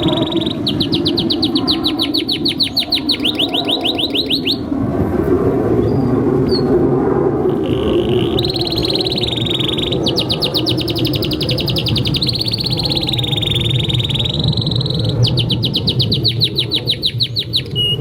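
Domestic canary in full song: long, fast trills of rapidly repeated notes, in three long phrases with a short break after the first. A steady low background noise runs underneath.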